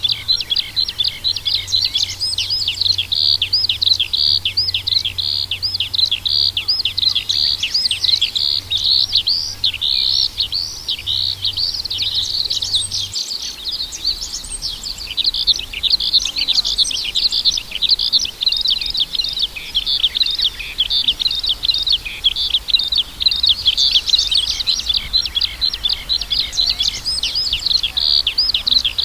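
Birds chirping: a dense, unbroken stream of short, high chirps that overlap one another, as from a flock or several birds calling at once.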